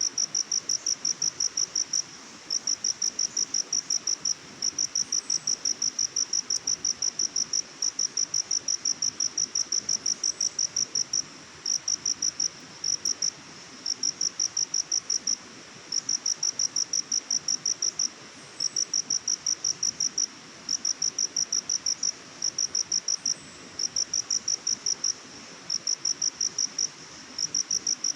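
A cricket chirping in rapid, even pulses of a high note, about five a second, in runs of roughly two seconds with brief pauses between them, over a faint steady hiss of forest background.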